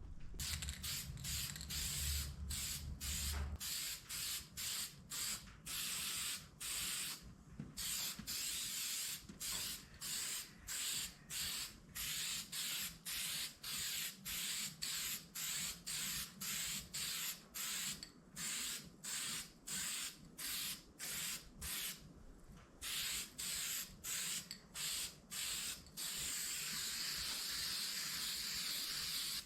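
Aerosol spray-paint can hissing in short repeated bursts, about two a second, as paint is sprayed on in passes; near the end it sprays in one continuous hiss.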